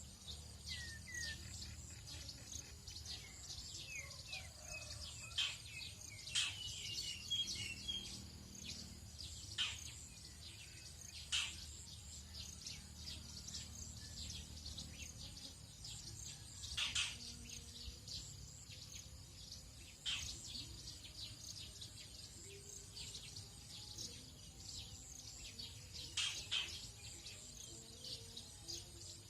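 Tropical dawn chorus of several wild birds: scattered short chirps and calls, with a quick run of warbled notes about six to eight seconds in, over a faint low steady hum.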